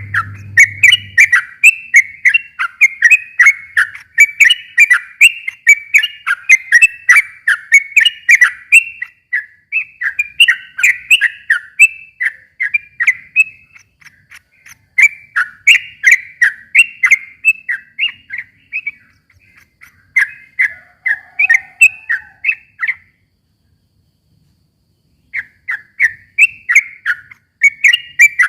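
Sooty-headed bulbul (trucukan) singing a long, fast, continuous run of chirping phrases, breaking off for about two seconds near the end before starting again.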